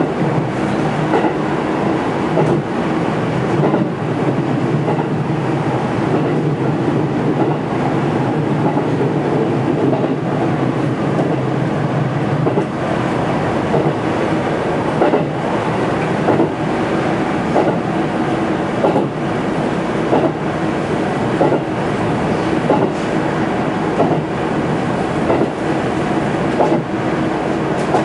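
JR 313 series electric train running at speed, heard from inside the driver's cab: a steady running noise with a low hum, and the wheels clicking over rail joints now and then.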